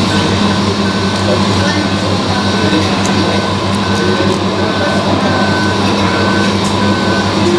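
Scale RC truck reversing, its backup beeper sounding evenly about one and a half times a second over a steady low engine drone.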